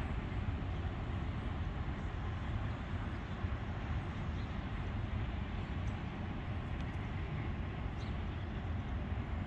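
Steady low rumble of a freight train running away into the distance, with no separate clanks or horn.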